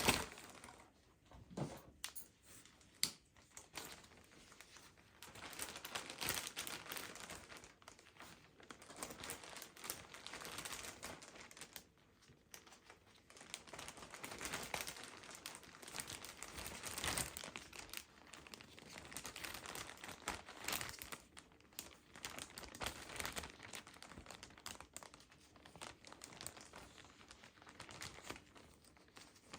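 Crinkling and rustling of paper or plastic being handled, with some tearing and occasional light clicks and knocks.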